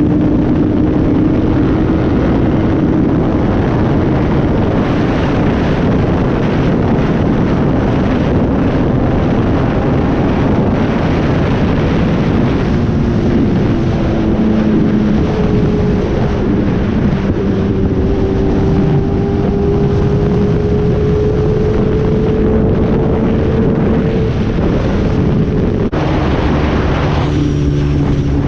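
Sport motorcycle riding at a steady cruising speed, heard from the rider's helmet camera: steady engine drone under heavy wind rush. Near the end the engine note drops lower.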